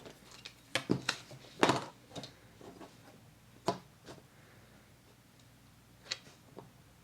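Paper and craft tools being handled on a tabletop: a few sharp taps and paper rustles, the loudest about one and a half seconds in, with quieter handling between and two more light taps near the end.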